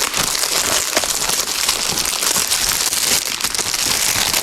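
Plastic packaging crinkling and rustling continuously as it is handled.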